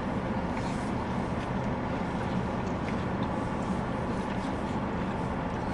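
Steady low rumble inside a car's cabin, typical of a running engine, with a few faint small clicks over it.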